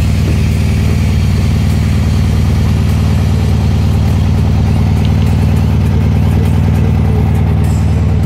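The air-cooled flat-four engine of a 1966 VW Beetle idling steadily.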